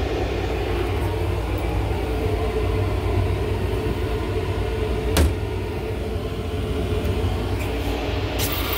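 Steady low rumble of a Long Island Rail Road M9 electric commuter car running, heard from inside its restroom. A single sharp knock comes about five seconds in.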